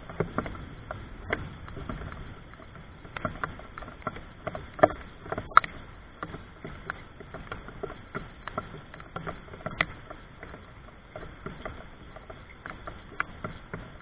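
Water dripping and splashing in scattered, irregular taps, several a second, over a low steady wash of noise.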